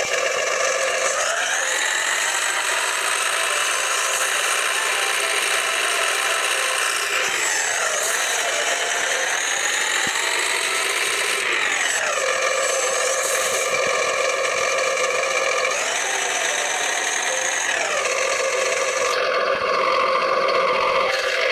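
A small high-speed motor running continuously with a whining tone. Its pitch drops and then climbs back five or six times, as if repeatedly slowing and recovering.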